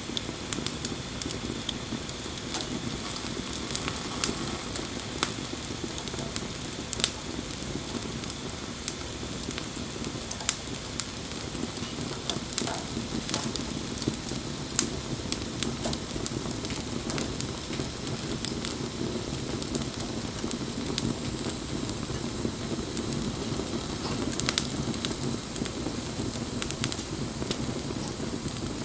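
Wood campfire burning: a steady low rush of flame with irregular crackles and sharp pops from the burning wood, a few of them louder snaps.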